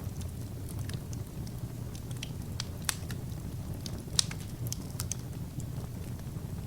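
Wood fire burning: a steady low rumble of flames with irregular crackles and pops, the sharpest snaps about three and four seconds in.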